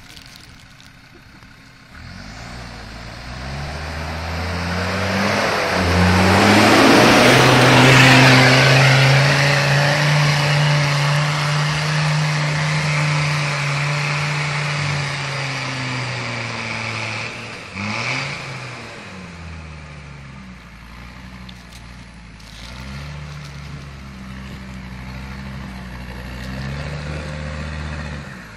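Off-road 4x4 engine revving hard under load, rising and falling in pitch, loudest about a quarter of the way in. About two-thirds through the revs drop sharply and pick up again, then the engine runs at a lower, steadier pitch.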